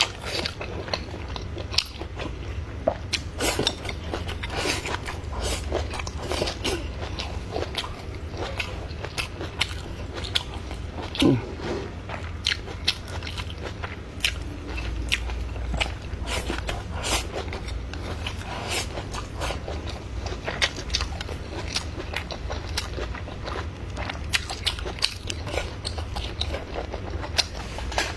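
A person chewing and biting food close to the microphone: a steady run of irregular wet clicks and crunches, over a low steady hum.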